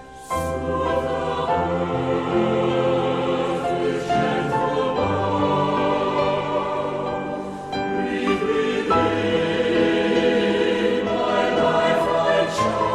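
Choir singing a sacred song with musical accompaniment, coming in loudly about a third of a second in.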